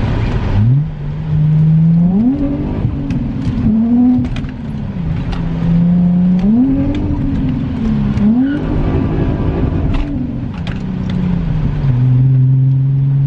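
Car engine revving hard, its pitch climbing and dropping again about four times as the throttle is worked, then settling to a steady pitch near the end.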